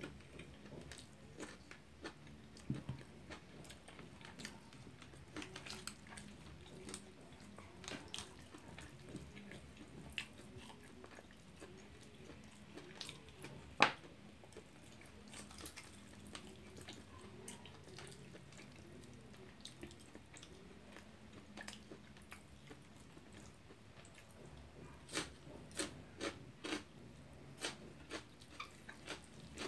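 Close-up eating sounds: chewing and small wet mouth clicks while hands tear at a steamed whole chicken. Scattered sharp clicks, the loudest about fourteen seconds in, with a run of them near the end.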